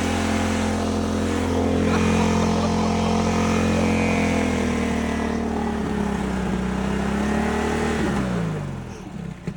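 Riding lawnmower's engine running steadily, then slowing with its pitch dropping until it dies near the end: it has run out of gas.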